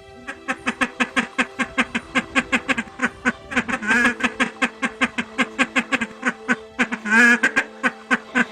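A rapid, even run of short animal calls, about five a second, with two longer wavering calls about halfway through and near the end, over background music with held notes.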